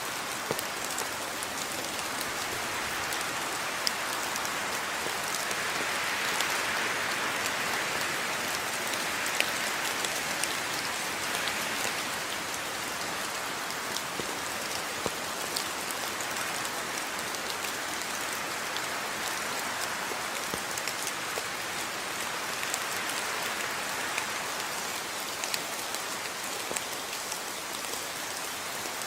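Steady rainfall, with individual drops pattering and ticking on surfaces over a continuous hiss. It swells slightly a few seconds in, then settles.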